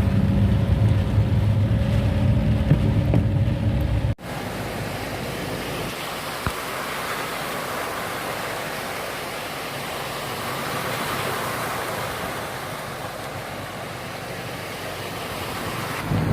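A motor engine runs with a loud low hum for about four seconds, then cuts off abruptly. A steady, even rushing of fast-flowing floodwater follows.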